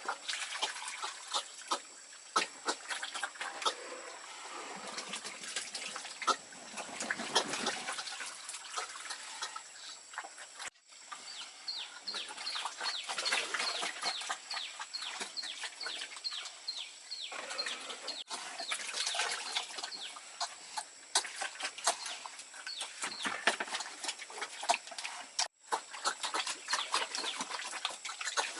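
Chickens clucking, with many short sharp clicks running through the calls.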